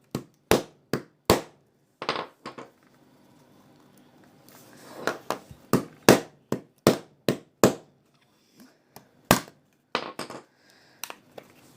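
Sharp plastic clicks and knocks of phone cases being pried and snapped off, coming in irregular clusters of several with short quiet gaps between them.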